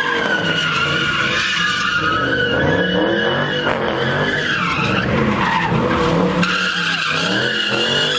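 A car's tyres squealing in one long, unbroken screech over its revving engine: a car sliding sideways in a drift.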